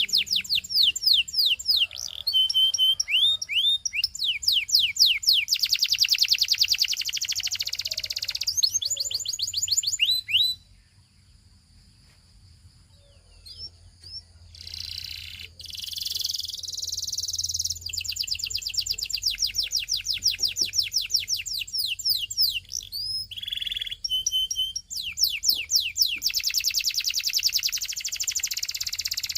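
Belgian singing canary singing: fast trills of rapidly repeated downward-sweeping notes, broken by a pause of a few seconds near the middle before the song starts again.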